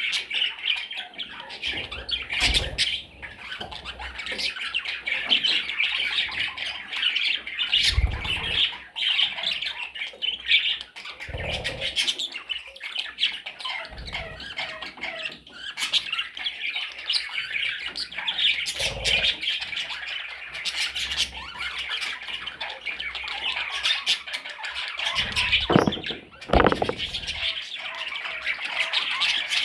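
Small parrots chattering and squawking steadily, with a few short thumps spread through.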